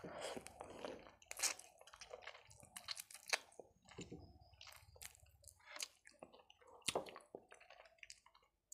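A person chewing a hand-fed mouthful of brown bread and chicken curry, with many sharp, irregular mouth clicks and smacks.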